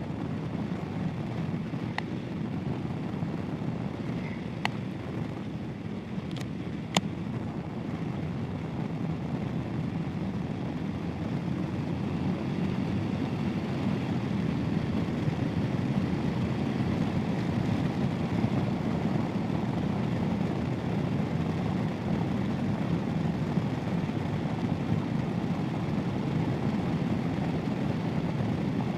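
Royal Enfield Himalayan single-cylinder motorcycle running at cruising speed, its engine and the rushing wind blending into a steady rumble that grows a little louder about twelve seconds in. A few sharp clicks sound in the first seven seconds.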